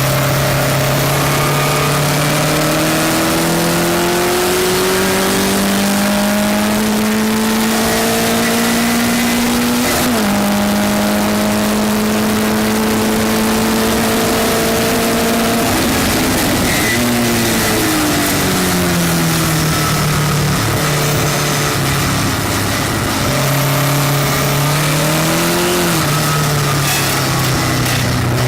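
Westfield race car's engine at racing speed. The note climbs slowly under acceleration and drops sharply at a gearchange about ten seconds in. It falls away as the car slows past the middle, then climbs again with another drop near the end, over steady wind and road noise.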